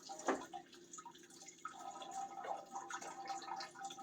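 Coolant dripping and splashing irregularly from a disconnected heater hose into a bucket and onto the floor, with a sharper knock near the start.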